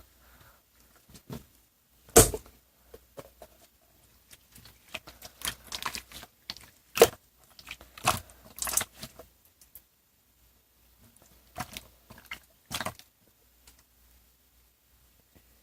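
Irregular clicks, taps and crackling handling noises in a small room, with a sharp knock about two seconds in and another about seven seconds in, and quiet gaps between.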